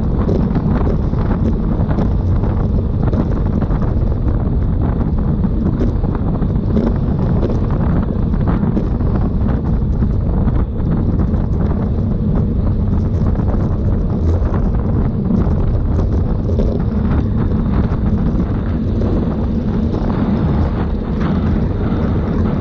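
Steady, loud wind noise on the microphone of a camera on a bicycle moving at race speed, with faint ticks and rattles throughout.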